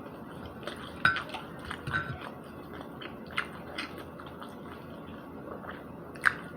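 A person chewing spicy chicken nuggets, with soft scattered mouth clicks and smacks; the sharpest come about a second in and just before the end.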